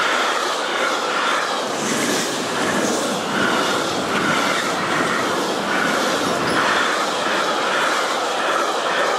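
Intermodal container freight train passing close at speed: a steady, loud rush of wheels on rail and rattling container flat wagons, with no break as the wagons go by.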